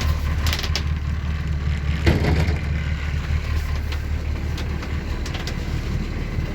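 Volvo Penta AD41A inboard diesel idling steadily with a low drone, running cold just after a start in frost. A few short knocks sound over it about half a second and two seconds in.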